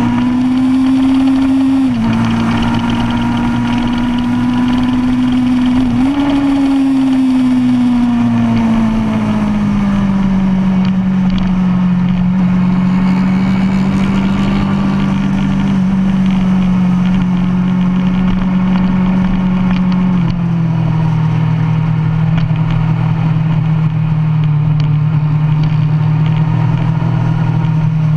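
2005 Kawasaki Ninja ZX-10R inline-four with an aftermarket DanMoto racing exhaust, heard onboard at track speed with wind rush. The engine note holds steady at high revs and drops sharply about 2 s in and again about 20 s in. It jumps up about 6 s in, slides slowly lower over the next few seconds, and jumps up again at the very end, following gear changes.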